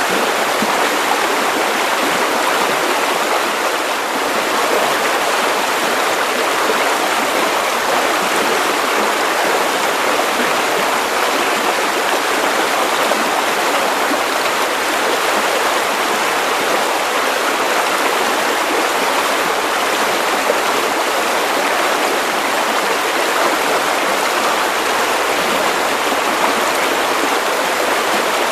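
Steady white noise: an even, unchanging hiss with almost no bass.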